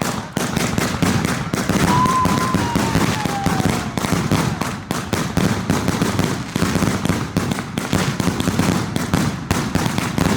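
Dense barrage of consumer fireworks going off: rapid, overlapping bangs and crackling without a break, with a faint whistle gliding down in pitch about two seconds in.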